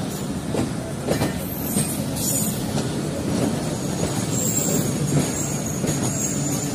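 Passenger coaches of an arriving train rolling past, the wheels clattering with sharp clacks over the rail joints. From about halfway a high metallic wheel squeal joins in.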